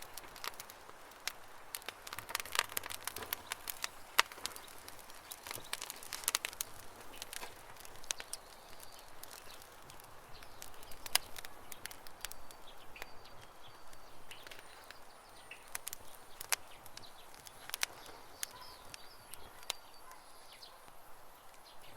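Campfire crackling with irregular sharp pops, densest in the first several seconds, while birds chirp faintly in the background.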